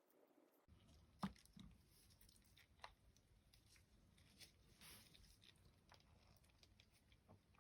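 Near silence with a few faint clicks and light handling noises, the clearest about a second in.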